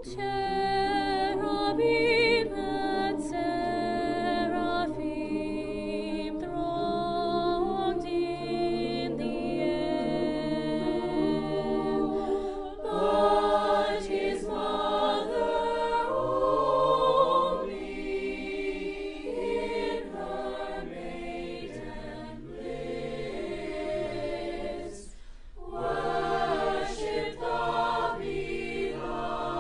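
A student choir singing a holiday song in harmony, with a short pause about 25 seconds in.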